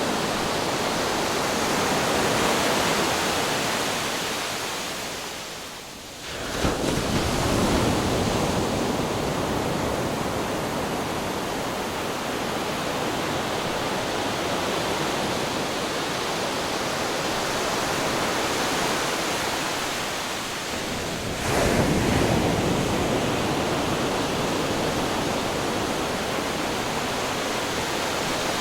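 Ocean waves crashing against rocks: a continuous rush of surf, with two brief lulls each ending in a sudden crash of a breaking wave, about six seconds in and again about twenty-one seconds in.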